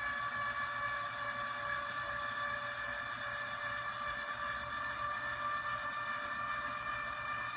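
Electric drive motor of a Bruno Valet Plus powered turning car seat running, a noisy, steady whine with no change in pitch.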